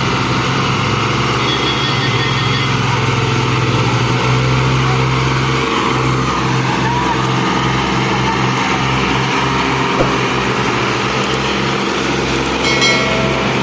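Diesel tractor engine running steadily under load, hauling a fully loaded sugarcane trolley.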